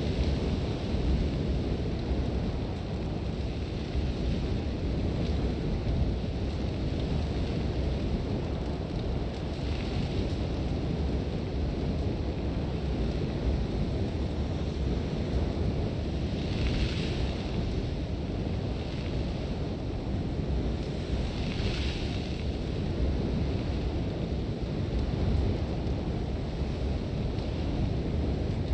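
Sandstorm wind blowing hard and steadily with a deep rumble, and a few brief surges of hissing blown sand, the strongest past the middle.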